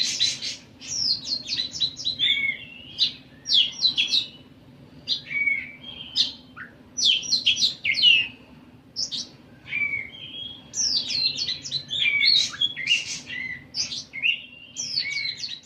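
A songbird singing vigorously and almost nonstop, in rapid bursts of sharp, high chattering and whistled notes with only brief pauses between phrases.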